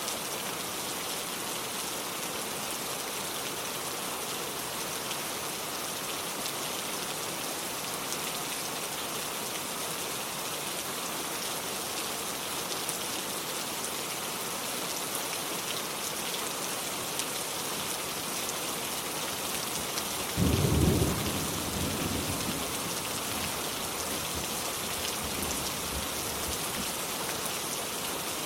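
Steady rain falling. About twenty seconds in comes a short, loud clap of thunder that rumbles away over a few seconds.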